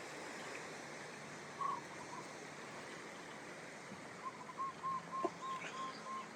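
Steady wash of ocean surf. A bird calls over it once early on, then near the end gives a run of about six short, even notes at roughly three a second.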